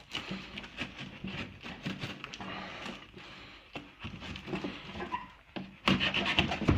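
Unpacking noises: irregular clicks, knocks and rustling of packaging being moved about in a box, with a louder flurry of knocks near the end.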